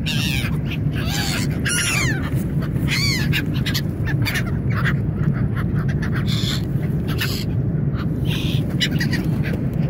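Gulls calling: a few arched, squealing calls in the first three seconds, then shorter sharp calls, over a steady low rumble.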